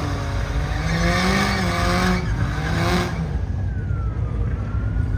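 A car engine revving hard with tyres screeching, as in a donut. The loud part stops about three seconds in, leaving engine noise and a thin wavering high tone.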